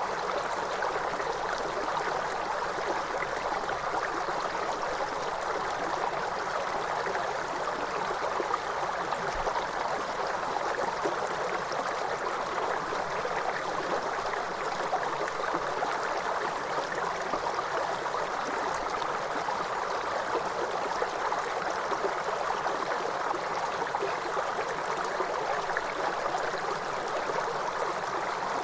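Waterfall: a steady, unbroken rush of falling water, strongest in the middle range with little low rumble.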